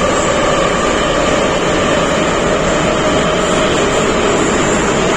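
Running noise heard inside an 81-714 metro car in motion: a loud, steady rumble and hiss of wheels on rail, with a steady hum from the drive running through it.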